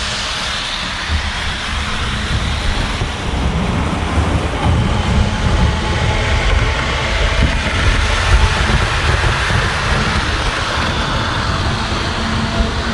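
Model steam locomotive running along the layout track: a steady mechanical rumble of motor and wheels on rail.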